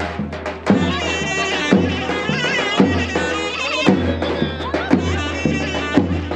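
Turkish folk dance music for a wedding: a wind instrument plays a wavering, ornamented melody over steady drum beats, about one a second, with a low bass underneath.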